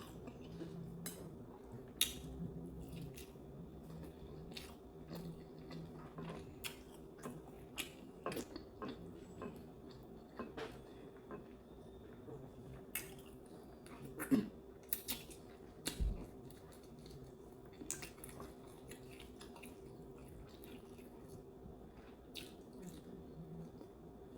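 A person chewing food, with scattered small clicks and clinks of cutlery against a plate. A faint steady hum runs underneath.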